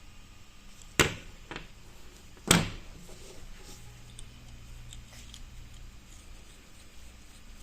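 Two sharp knocks about a second and a half apart, then a few faint ticks.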